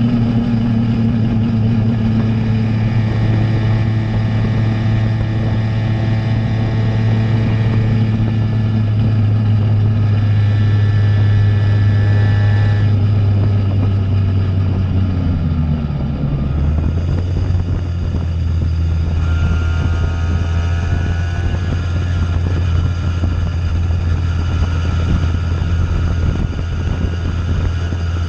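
Simson moped's two-stroke engine running under way through a JW 85G+ aftermarket exhaust, holding steady revs. About halfway through, the revs drop to a lower steady note and hold there.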